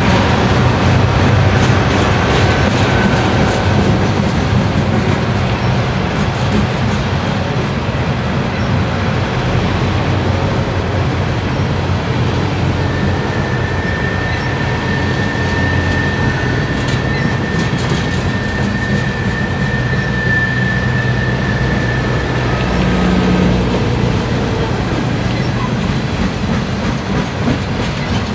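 Loaded refrigerated boxcars of a freight train rolling past close by: a steady rumble and clatter of steel wheels on rail. A thin high squeal is held for several seconds around the middle.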